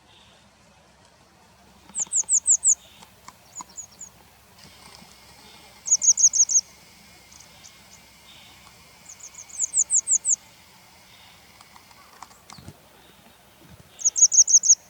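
Grey wagtail calls from a field-guide recording: quick runs of six to eight sharp, high notes, coming four times about every four seconds.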